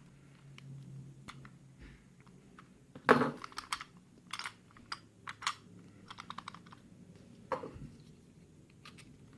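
Small metallic clicks and taps from handling a padlock's parts and a screwdriver while the lock is being taken apart, with a louder knock about three seconds in and a quick run of small clicks around six seconds.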